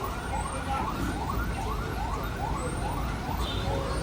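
Electronic emergency-vehicle siren on a fast yelp, each wail quickly rising and falling in pitch about two to three times a second, over a low engine rumble.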